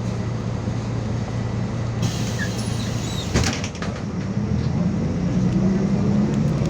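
City bus engine running steadily, with a burst of hiss about two seconds in that ends in a knock; the engine note then rises as the bus pulls away.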